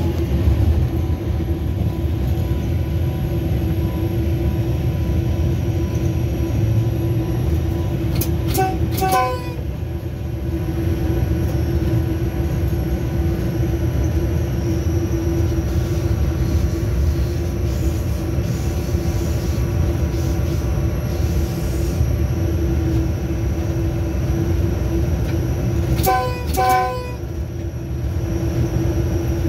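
Steady heavy rumble of a diesel locomotive running along the track, heard from the front of the locomotive. Two brief pairs of sharp, higher-pitched notes come about eight seconds in and again near the end.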